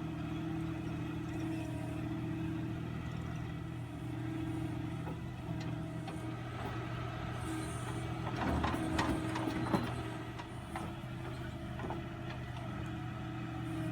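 Tractor diesel engine running steadily at low revs, with a cluster of knocks and rattles about nine seconds in.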